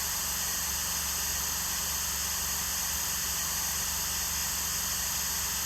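Steady electronic static hiss with a low hum underneath, unchanging throughout.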